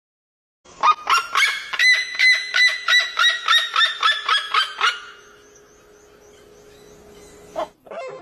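A bird giving a rapid run of about eighteen short, pitched calls, some four a second, over about four seconds, then a faint steady hum.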